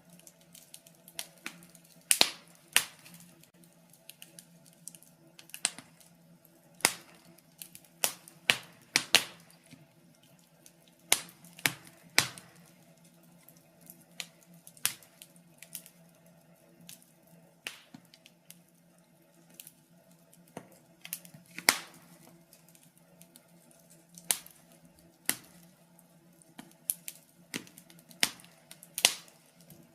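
Wood fire crackling: irregular sharp pops and snaps, a few of them much louder than the rest, over a faint steady low hum.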